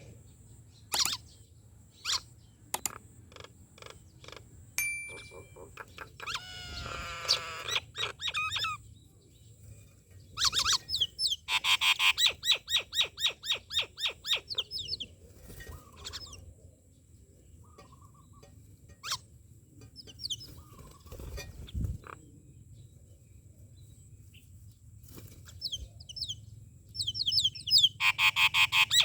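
Myna birds calling: sharp single squeaks and clicks, a warbling run of notes, and long runs of fast repeated loud notes, once around the middle and again near the end.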